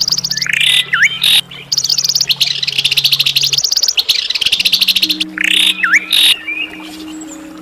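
Songbirds calling: fast rattling trills of high notes alternating with harsh, buzzy calls, each harsh call twice carrying a whistle that dips sharply and rises again. A low steady hum runs underneath and shifts pitch about halfway through, and the birds fall quiet near the end.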